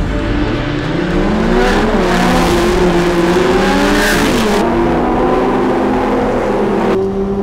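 Lamborghini Gallardo Super Trofeo race car's V10 engine, heard from inside the cockpit, revving up as the car pulls away, its pitch rising and dipping through the gear changes before settling to a steady run.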